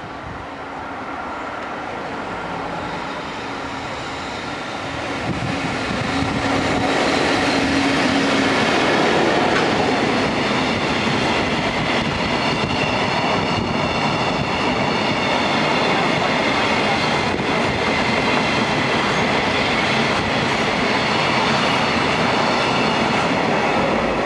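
JR Freight EF65 1000-series electric locomotive hauling a long container freight train past a station platform. The sound swells as the locomotive draws level about five seconds in, then the wagons' wheels keep up a loud, steady running noise on the rails, with faint high steady tones above it.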